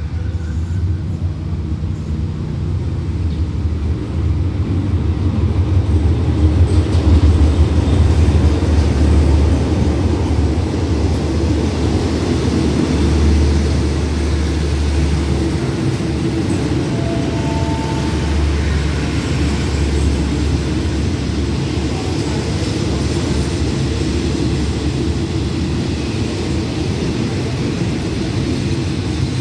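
Diesel-hauled passenger train pulling into the platform. The locomotive's deep engine rumble is loudest about seven to ten seconds in, then gives way to the steady rumble of coaches rolling past.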